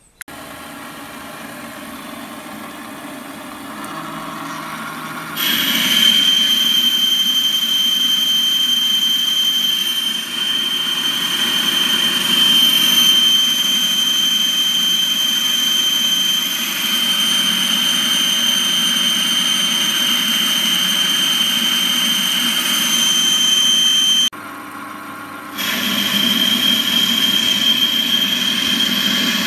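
Warco metal lathe running while a boring bar cuts, opening out a drilled hole in the block. A steady high-pitched whine runs from about five seconds in, breaks off briefly near the end, then returns.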